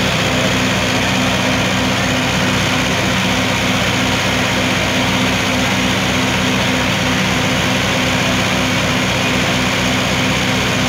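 Tractor diesel engines running steadily with an even low throb.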